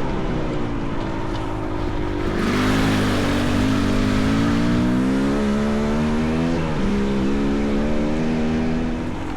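Dirt bike engine running under load, its pitch climbing from about two seconds in and holding high, with a brief dip near seven seconds. A rushing hiss comes up with the climb.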